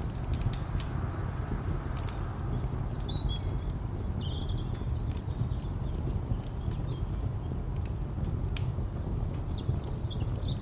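Steady low rumble of distant traffic, with scattered pops and crackles of a wood fire. A few short high bird chirps come about three seconds in and again near the end.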